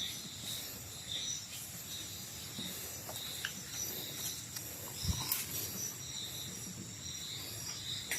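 Night insects chirping in a rainforest chorus, several high steady tones pulsing over one another, with a single soft low knock about five seconds in.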